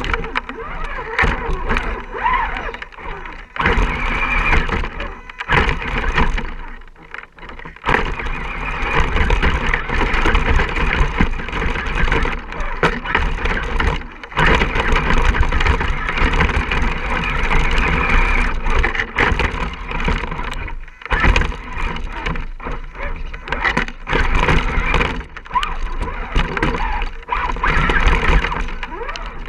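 Radio-controlled Axial SCX10 rock crawler's electric motor and gear drivetrain whining under throttle in long stretches, with several short pauses where the throttle is let off.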